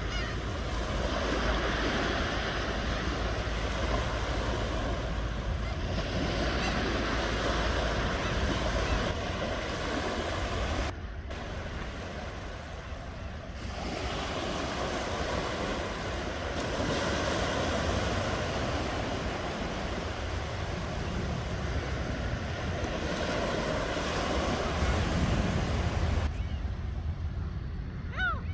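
Ocean waves breaking and washing onto the shore, a continuous rush of surf that swells and eases, dipping briefly about a third of the way in and again near the end.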